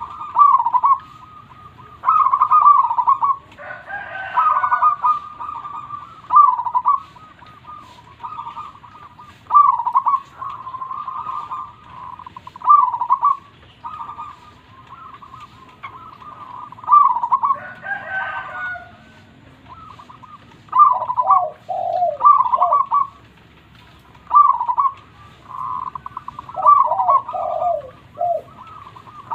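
Zebra dove (perkutut) cooing over and over, each phrase a quick run of short notes, repeated every second or two. Twice, about four seconds in and again at about eighteen seconds, a broader, coarser call from another bird cuts across the cooing.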